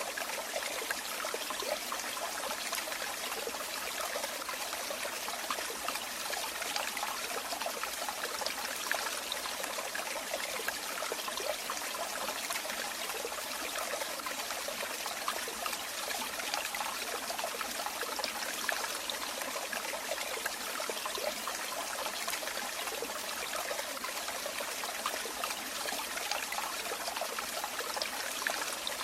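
Running water trickling and splashing steadily, a light, even rush with no deep rumble.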